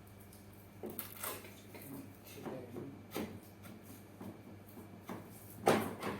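A string of light knocks and clatter from small hard objects being handled and set down, with the loudest, sharpest knock near the end.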